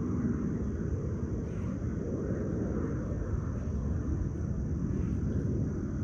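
Steady low outdoor rumble of distant engine noise, with a faint steady high hiss above it.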